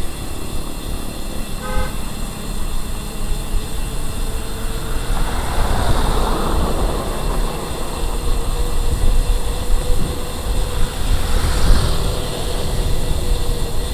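Road and wind rumble while riding in traffic, with a short vehicle horn toot about two seconds in and louder swells of passing-vehicle noise later on.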